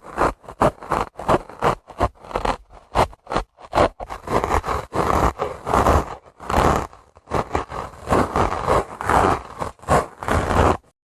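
Dry sponge being scratched and rubbed in quick repeated strokes that cut off abruptly near the end.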